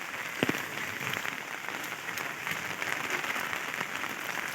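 Heavy rain falling steadily, a dense even patter, with a single short knock about half a second in.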